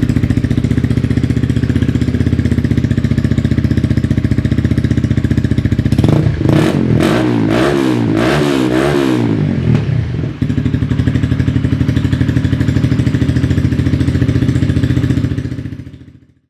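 Honda CBR 125R's 125 cc single-cylinder four-stroke engine, breathing through an Akrapovič exhaust with the baffle removed. It idles steadily, then takes a series of about five or six quick throttle blips before settling back to idle. The sound fades out near the end.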